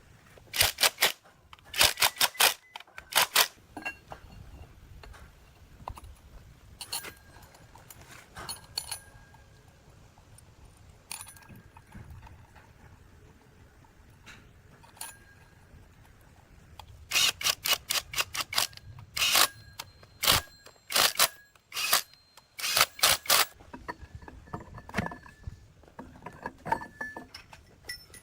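Sharp metallic clicks and taps in quick runs, hand tools working on metal machine parts, with two busy spells: one just after the start and a longer one past the middle, and scattered single taps between.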